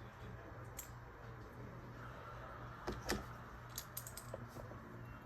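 Light clicks and rattles of small LEGO plastic pieces being handled, loudest about three seconds in, with a few more quick clicks shortly after, over a steady low hum.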